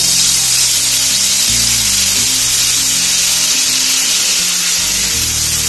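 Onion paste sizzling in hot oil in a frying pan, a steady hiss, with background music of low held notes that shift every second or so.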